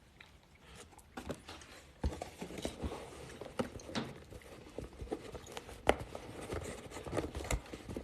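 Irregular clicks, taps and rustling of small objects being handled close to the microphone. The sounds start about a second in and grow busier from about two seconds in.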